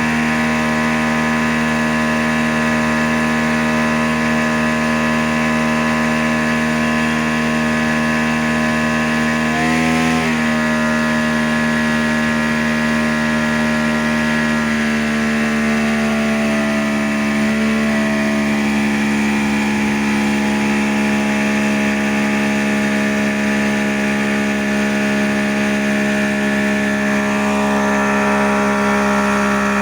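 Outboard boat motor running steadily on a test run. The engine speed changes briefly about a third of the way in, shifts again around the middle, and once more near the end.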